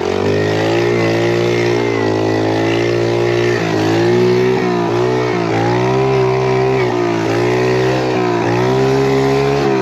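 Small pit bike engine running hard at fairly steady revs as it is ridden along a trail, with brief dips in revs every second or so as the throttle is eased and opened again.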